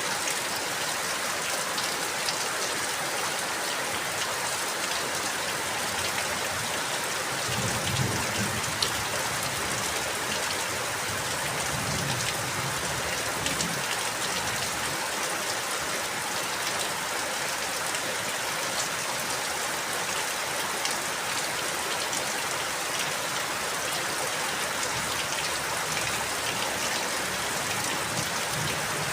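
Steady rain falling, with scattered drop ticks and a brief low rumble partway through.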